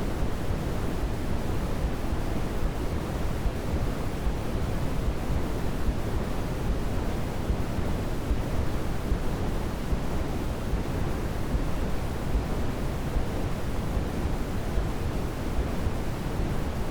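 Steady synthetic noise played as a baby sleep aid, unchanging throughout, deeper than pure white noise: its energy is heaviest in the low end and thins toward the top.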